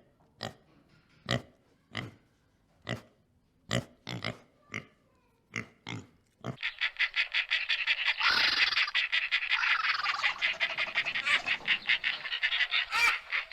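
Animal calls: a string of short, sharp single calls with gaps between them. About six seconds in, they give way to a fast, continuous chatter of pulsed calls.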